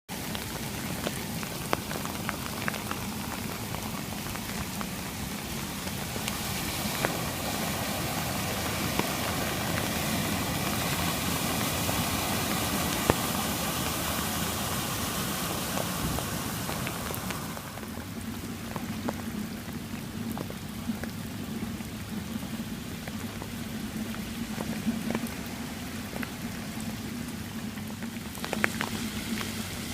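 Flash-flood water noise: heavy rain and rushing floodwater, a steady hiss with scattered drop ticks, swelling toward the middle and dropping off sharply about two thirds of the way through.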